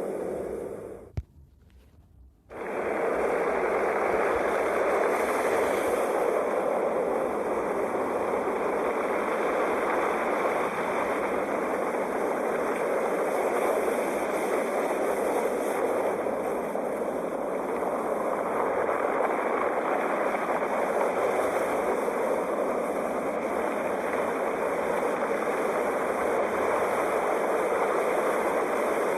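Ocean surf: a steady wash of breaking waves. About a second in it cuts out after a click, for just over a second, then resumes.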